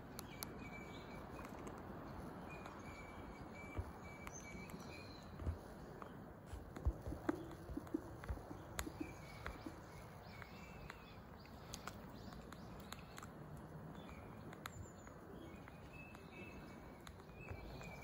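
Steady outdoor background noise with short, faint, high bird calls every few seconds. A run of sharp knocks comes between about five and ten seconds in.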